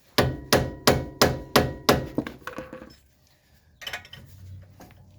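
Hammer striking steel six times in quick succession, about three blows a second, each with a short metallic ring; a few lighter knocks follow about four seconds in.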